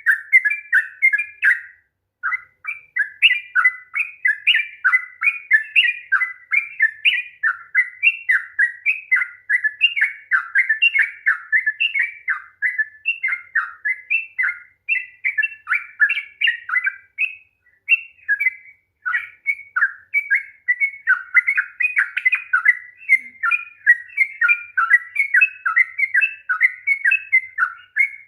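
Yellow-vented bulbul (trucukan) singing a long, rapid run of short bubbling notes that is almost unbroken, with brief pauses about two seconds in and again near the middle.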